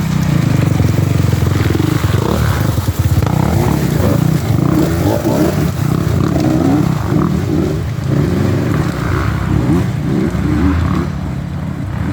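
Dirt bike engines revving unevenly, their pitch repeatedly rising and falling, as riders work the bikes through a slippery, mossy creek bed.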